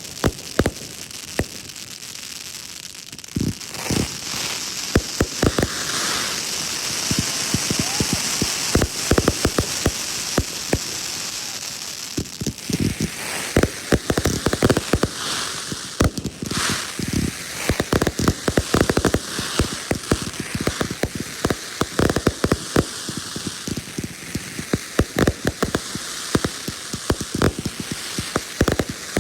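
Fireworks crackling: a dense, irregular run of sharp pops and crackles. A hiss rises under them a few seconds in and fades after several seconds.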